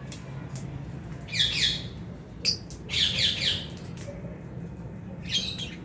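Lovebirds squawking and chirping, in three short bursts of rapid, harsh calls, with a few sharp clicks between them over a steady low hum.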